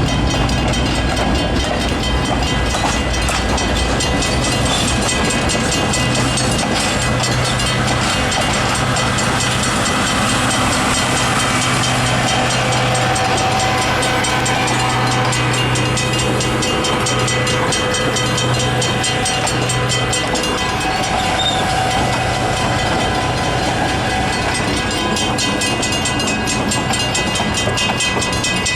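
A dinner train passing close by, its cars and wheels rumbling and clattering steadily on the rails.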